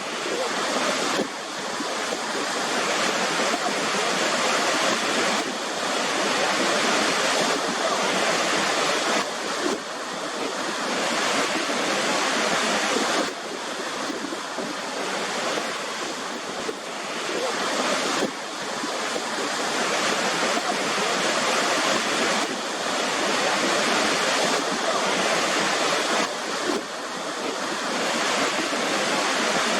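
Waterfall: a steady rush of falling water. Its level drops abruptly every few seconds and then builds again.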